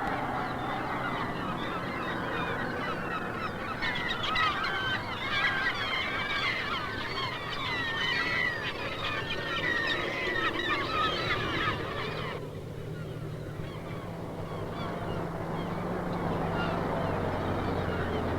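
A flock of geese honking, many calls overlapping at once. The calls cut off abruptly about two-thirds of the way in, and a low steady rumble takes over.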